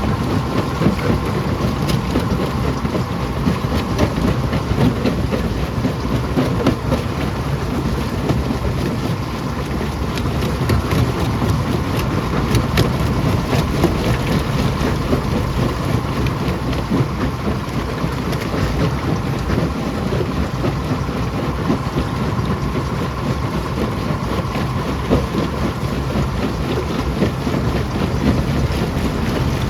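Rock crusher running with a heavy, continuous rumble, rocks knocking and cracking many times throughout.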